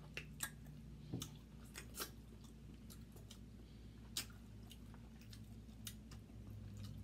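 Faint close-up eating sounds of people chewing seafood-boil crab by hand, wet mouth noises with scattered sharp clicks and smacks; the loudest click is about four seconds in.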